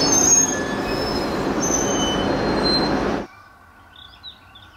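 JR 719-series electric multiple unit running on the rails, with high wheel squeal over the rolling noise. The sound cuts off abruptly about three seconds in, leaving a quiet background with faint bird chirps.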